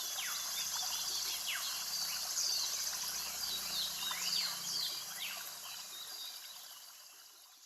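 Tropical forest ambience: a steady high drone of insects with birds giving repeated quick whistles that fall sharply in pitch. It all fades out over the last couple of seconds.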